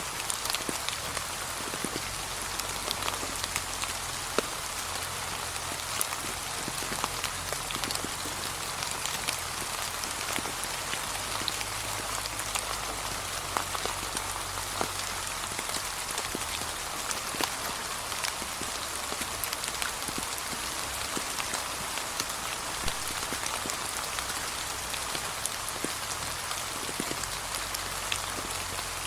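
Steady gentle rain falling on fallen autumn leaves, a continuous hiss with many distinct single drop ticks scattered through it.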